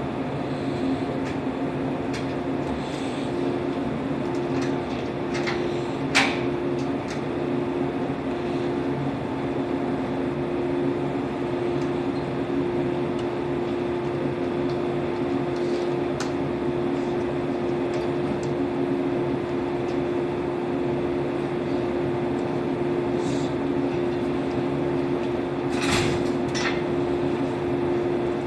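Stationary Shinano Railway 115-series electric train humming steadily from its onboard equipment. A sharp clack comes about six seconds in and a couple of knocks near the end.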